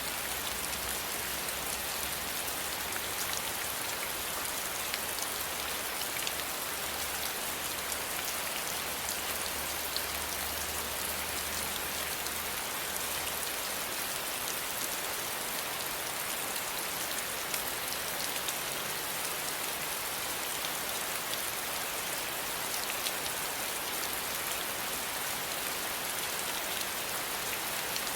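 Steady rain falling, an even hiss dotted with the ticks of single drops striking a surface, with a faint low hum underneath that fades out about halfway through.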